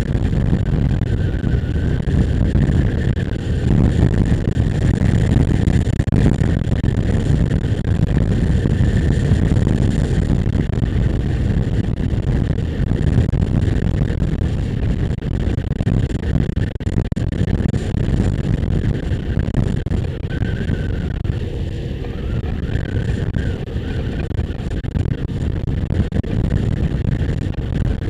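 Motorcycle running at a steady cruising speed, with wind rushing over the microphone.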